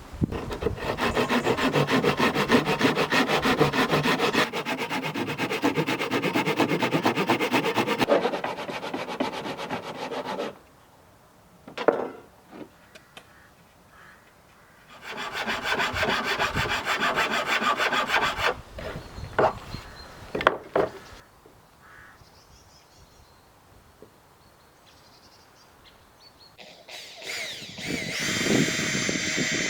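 Saw cutting through wood in two long runs of fast, even strokes, with a few knocks in the pause between them. Near the end a cordless drill starts up with a steady whine.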